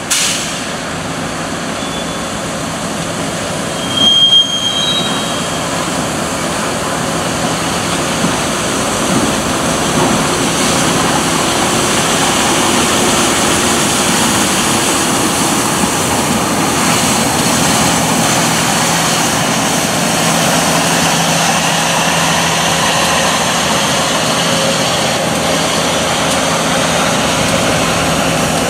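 Passenger train passing: a steady rumble of wheels on rail under a low engine hum, growing louder over the first ten seconds and then holding, with a brief high-pitched wheel squeal about four seconds in.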